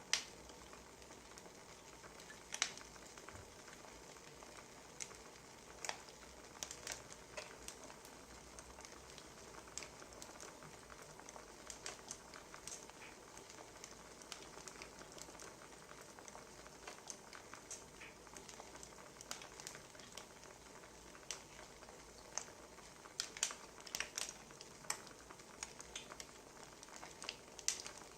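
Wood fire crackling: irregular pops and snaps over a faint steady hiss, with a busier run of louder pops in the last third.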